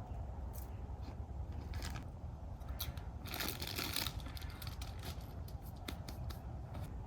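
Irregular crackling and rustling of something being handled, densest in a burst about three and a half seconds in, over a low steady rumble.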